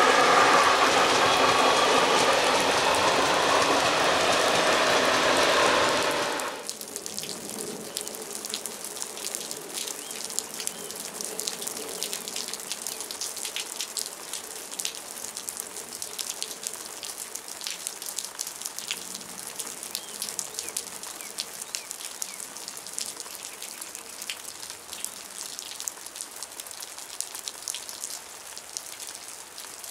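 A ČD class 854 diesel railcar train passing close by, its wheels clattering over the station points, until the sound cuts off abruptly about six seconds in. After that comes steady rain pattering, with many small drops ticking close by.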